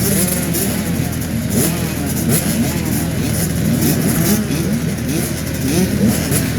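Several motocross bikes racing around the track, their engines overlapping and rising and falling in pitch as they rev up and ease off.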